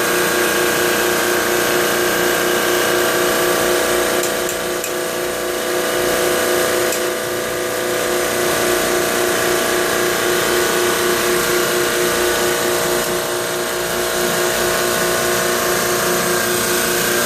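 Carrier reciprocating refrigeration compressor running steadily during a pump-down, with its liquid line solenoid closed so it pulls the refrigerant into the condenser. It is a loud, even mechanical hum with a fast, regular pulse.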